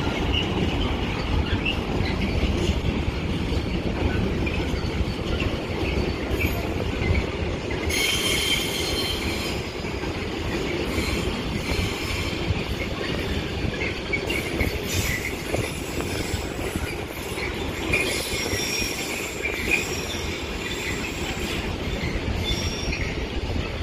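Intermodal container freight train rolling past: a steady rumble of wagon wheels on the rails, with high-pitched wheel squeal coming and going, first about a third of the way in and again in the second half.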